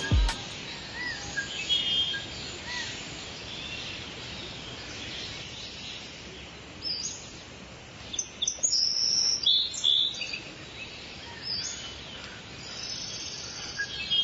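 Birds chirping and calling over steady background noise, with a run of brighter, louder chirps from about eight to ten seconds in. A music beat ends just as it begins.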